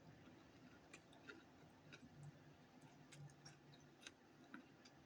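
Near silence with faint, irregular small clicks: mouth sounds of someone chewing food.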